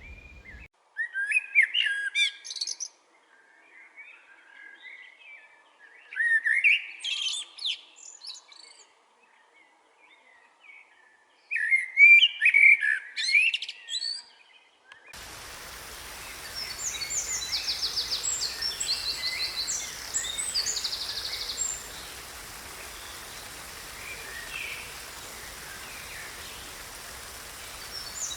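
Songbirds singing: three loud, warbling song phrases a few seconds apart. About halfway through, a steady hiss of background noise sets in and high, fast-trilled bird calls take over.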